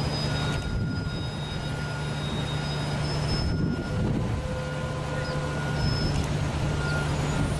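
Steady engine drone with a constant low hum, running evenly without revving.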